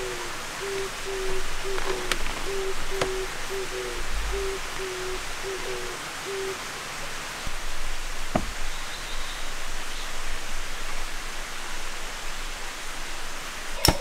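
A bird's low hooting call, repeated about twice a second over a steady background hiss, stopping about six and a half seconds in. A few faint clicks follow.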